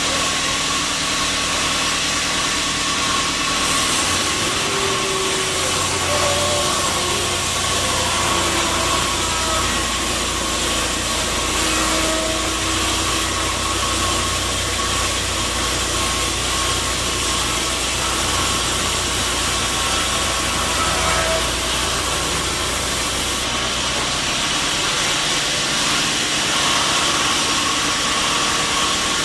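Sawmill saw and its machinery running steadily with a constant whine. A deeper hum comes in about four seconds in and drops out again after about twenty seconds.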